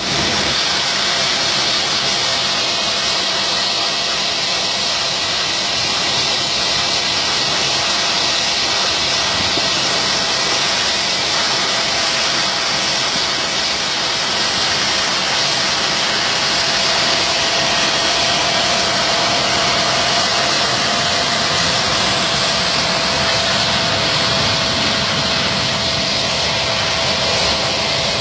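Jet aircraft engines running: a steady loud hiss with a high whining tone held throughout.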